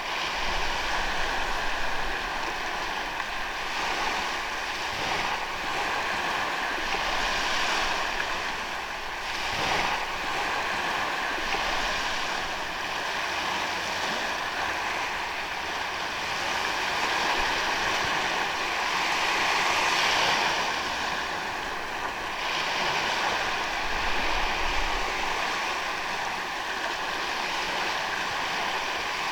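Ocean waves breaking and washing up a beach: a continuous surf wash that swells and eases every few seconds.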